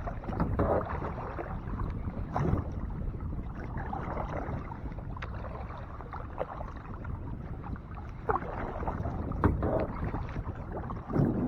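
Kayak paddle strokes dipping and splashing in lake water, with a few scattered knocks, over a steady low rumble.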